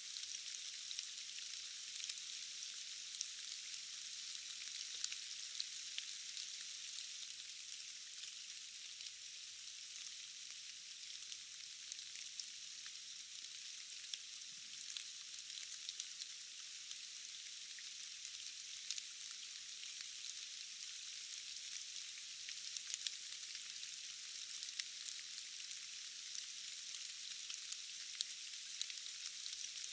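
Steady rain falling, a thin, even hiss of dense patter with scattered sharper drop ticks and no deep rumble underneath.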